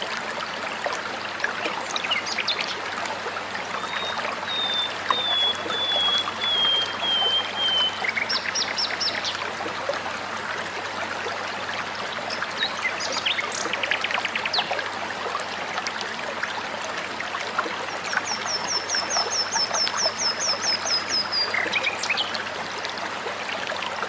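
Songbirds calling over a steady rush of running water. About four seconds in comes a slow descending series of whistled notes, then short bursts of rapid chattering clicks. Near the end there is a fast run of about a dozen high notes.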